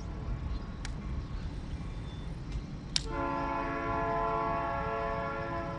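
A train horn sounds a steady multi-tone chord starting about three seconds in and holding on, over a low rumble, with a couple of sharp clicks before it.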